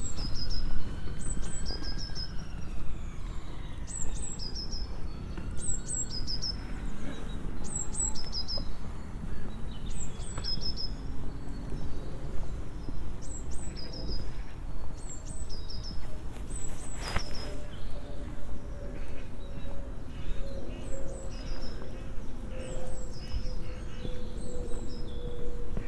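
A small songbird repeating short, high chirps over and over, about one every second or two, over steady low outdoor background noise. In the second half a faint steady hum slowly drops in pitch.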